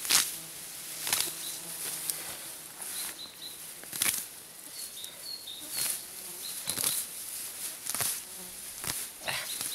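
Weeds and grass being pulled and torn out around a sea buckthorn bush: a run of sharp rustling swishes, about one every one to two seconds. A faint insect buzz comes early, and a few short high chirps come midway.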